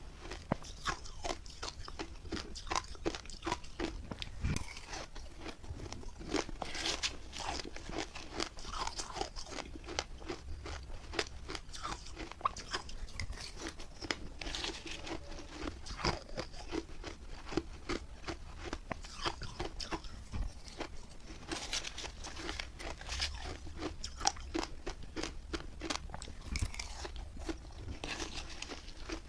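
Person biting and chewing refrozen milk-and-matcha ice: a dense, continuous run of sharp, crunchy cracks.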